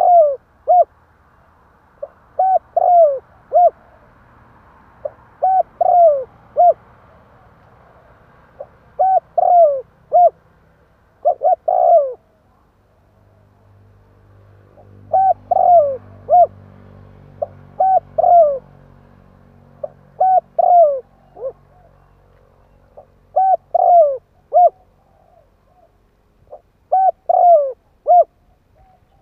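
Spotted dove cooing: repeated phrases of three or four short coos, each note falling in pitch, a phrase every two to three seconds. It is a decoy call used to draw in wild doves.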